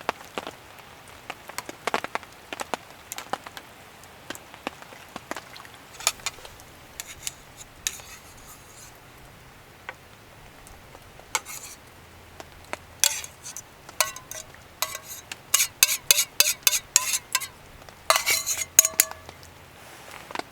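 Metal utensils clinking against metal cookware: scattered light knocks, then a quick run of ringing clinks in the second half, loudest near the end.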